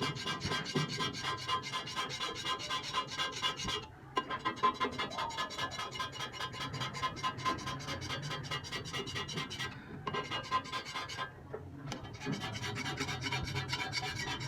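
Rapid, even rasping strokes of metal rubbing on metal, with short pauses about four seconds in and between ten and twelve seconds in.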